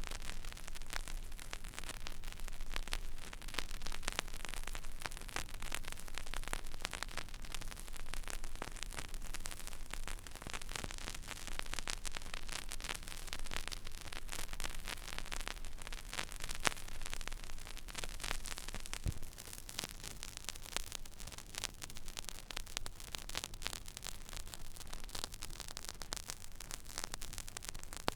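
Stylus riding the empty groove of a vinyl record: steady surface hiss with dense crackle and pops, over a low hum.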